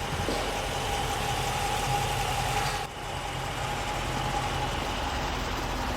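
The Chrysler 300C SRT-8's 6.4-litre 392 Hemi V8 idling steadily, a low even rumble with a steady higher hum over it. The sound dips briefly about three seconds in.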